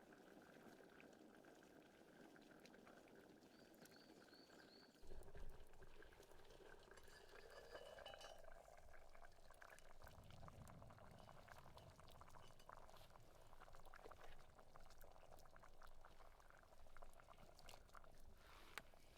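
Faint bubbling of a pot of goulash simmering over a campfire. About five seconds in, a pouring sound starts, its pitch rising as the vessel fills, followed by scattered small clicks.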